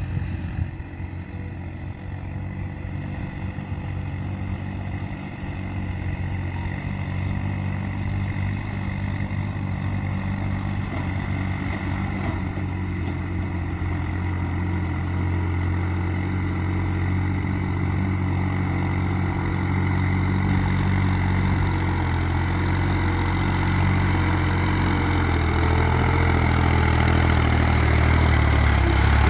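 New Holland 3630 tractor's diesel engine running under heavy load while pulling a loaded trolley: a steady low engine note that grows gradually louder.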